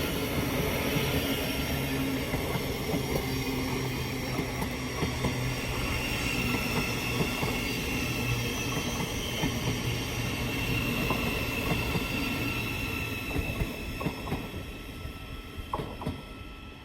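Thameslink Class 700 electric train in the station: a steady electric hum with a higher whine over it, dying away over the last few seconds.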